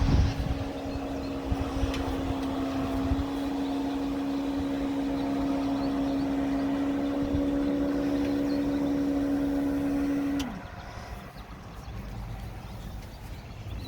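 Small electric motor humming steadily at one pitch, then winding down and stopping about ten and a half seconds in.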